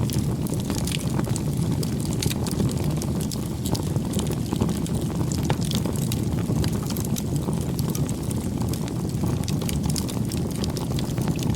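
Campfire burning, with a steady low rush of flames and frequent sharp crackles and pops from the burning wood.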